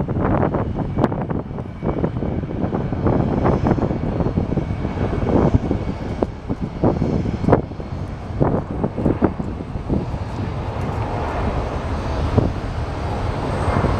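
Airbus A320-family jet airliner engines running loud, with uneven gusts of wind buffeting the microphone.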